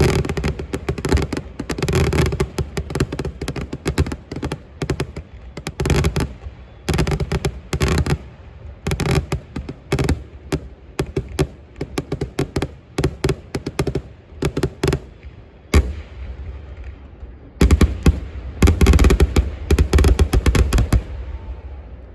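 Fireworks going off in rapid volleys of sharp crackling bangs, in clusters separated by brief lulls. The heaviest, loudest barrage comes near the end, then the crackling dies away.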